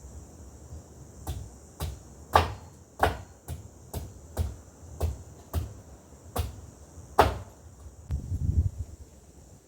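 A series of about a dozen sharp chopping strikes, roughly two a second, with a short low rumble near the end. A steady high chirring of insects runs beneath.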